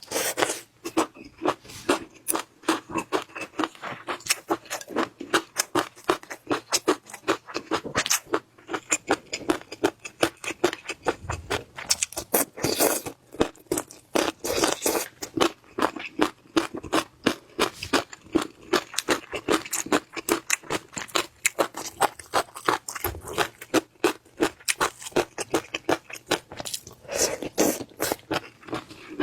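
Close-miked eating sounds: a person chewing and crunching food, with rapid wet mouth clicks several times a second.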